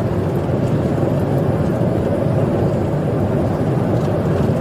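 Steady road and engine noise of a police car driving at speed in a pursuit, heard from inside the car.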